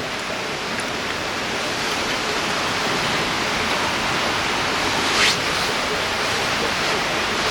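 River water rushing steadily over a rocky bed, with a short hiss about five seconds in.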